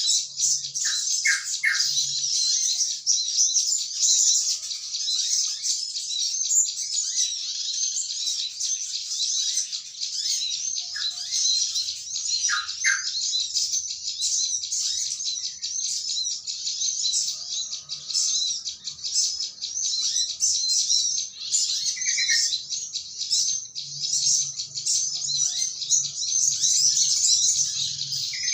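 Dense, continuous high-pitched chattering of a flock of small birds, with a few lower, fuller call notes from a yellow-vented bulbul (trucukan) about a second in, near the middle and about three-quarters through: a bird-luring call recording.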